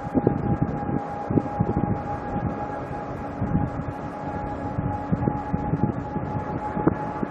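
Jet airliner engines running with a steady high whine over a rough, crackling rumble that comes up suddenly at the start.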